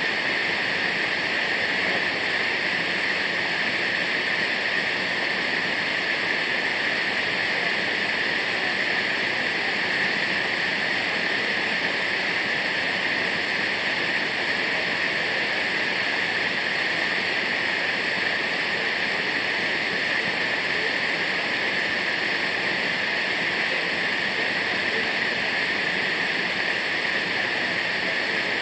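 Waterfall, its falling water making a steady, unbroken rushing.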